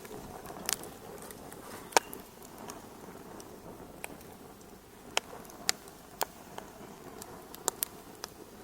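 Wood fire crackling in a fireplace: irregular sharp pops and snaps over a low steady hiss. The loudest pop comes about two seconds in.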